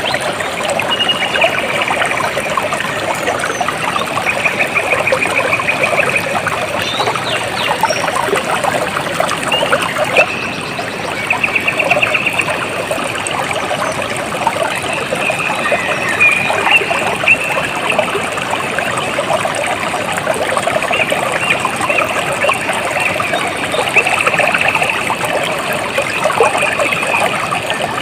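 Water trickling and splashing steadily, full of small bright drips. Over it, a high, rapid trill lasting a second or two repeats every few seconds.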